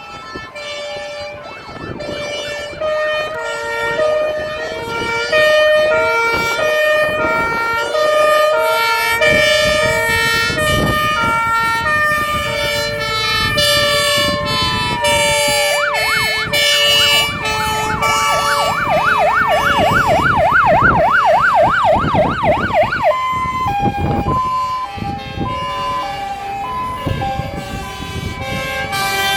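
Sirens of several fire engines sounding together as a column of trucks passes: two-tone sirens alternating between high and low notes, overlapping out of step. About halfway through, one siren slides down in pitch and then switches to a fast up-and-down yelp for several seconds.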